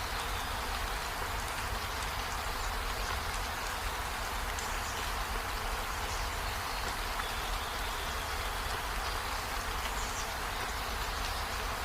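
Steady rain falling, an even hiss of drops that doesn't let up.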